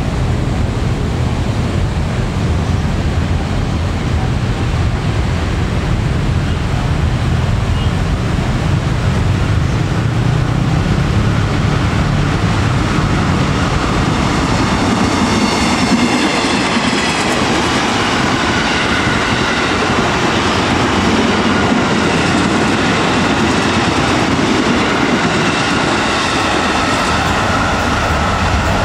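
KAI Commuter electric commuter train approaching and passing along the track: a steady rumble of wheels on rail, joined from about halfway by a high, shifting whine as it comes close.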